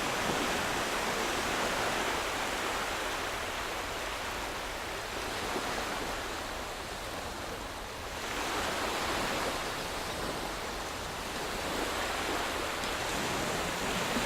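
Calm waves on a sandy coast: an even hiss that swells and eases every few seconds as each wave washes in.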